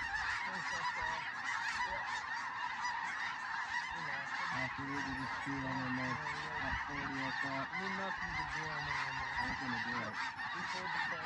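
A large flock of snow geese calling continuously as it circles overhead, a dense din of many overlapping high-pitched honks.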